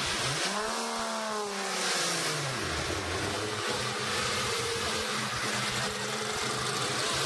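Ferrari 250 GTO V12 engines running at low speed as the cars pull away. One engine rises in pitch about half a second in, falls back after a couple of seconds, then settles into a steady low running note.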